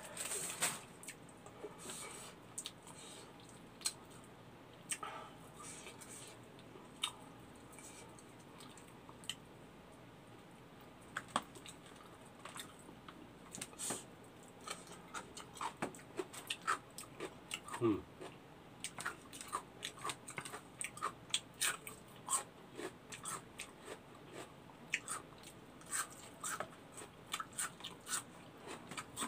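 Close chewing and biting of food eaten by hand, with scattered crunches and wet mouth clicks, sparse at first and more frequent in the second half.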